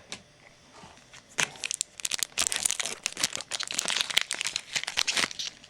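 Crinkly wrapper of a trading card pack being torn open and crumpled by hand, a dense run of crackles that starts about a second and a half in and stops shortly before the end.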